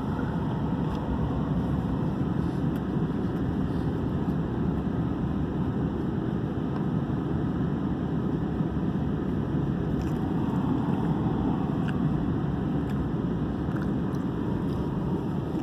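Steady road and engine noise heard inside the cabin of a moving vehicle on a snowy road, with the heater fan blowing on high.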